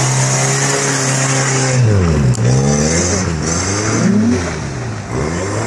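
Rusted Toyota pickup truck's engine held at high revs while drifting in snow. About two seconds in, the revs drop sharply and climb straight back up, then keep rising and falling, with a steady hiss over it.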